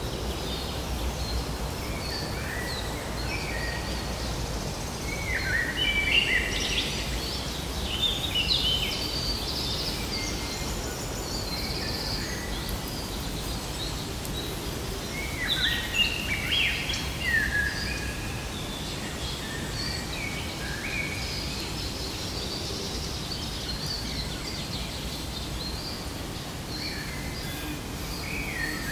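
Birds singing in quick chirping phrases over a steady outdoor background hiss, the song busiest in two spells, once early and again a little past the middle.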